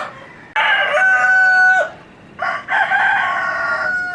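A rooster crowing twice, each crow a long call that holds a steady pitch before dropping off.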